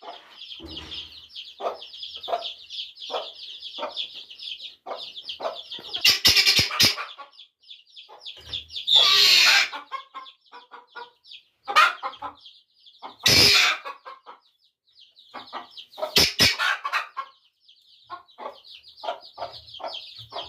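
Newly hatched partridge chicks peeping continuously in a high-pitched chorus, with a brooding mother bird's short low clucks repeating among them. Several loud, brief noisy bursts break in, at about 6, 9, 12, 13 and 16 seconds.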